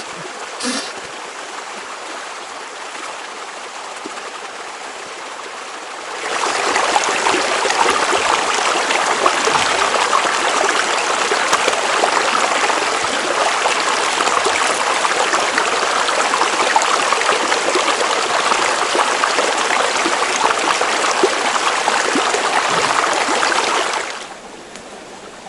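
A small river running over stones, a steady rushing flow. About six seconds in it becomes much louder and stays so until near the end, when it drops back.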